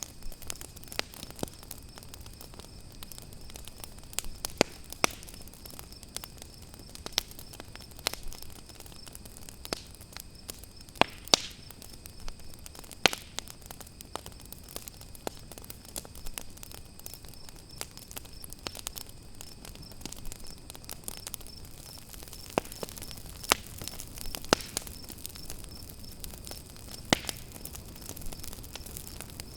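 Wood campfire crackling, with sharp irregular pops several times a second. Under it runs a steady high chirring of crickets.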